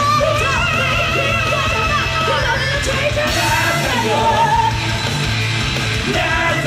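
A live rock band playing loudly in a musical theatre, with a wavering high melody line over a steady bass and yelled vocals.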